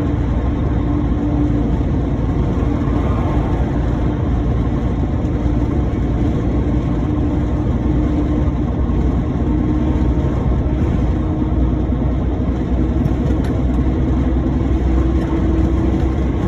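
Truck engine running with steady road noise, an even low rumble while driving.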